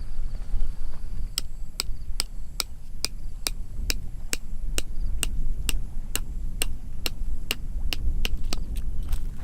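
A steady series of light, sharp knocks, about two a second, starting about a second in, over a constant low rumble.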